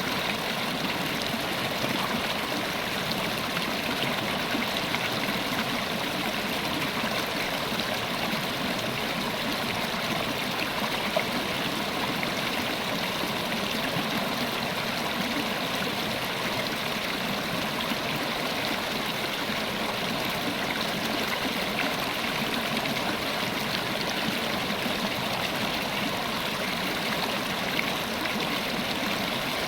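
River water running steadily over rocks, a continuous even rush and babble.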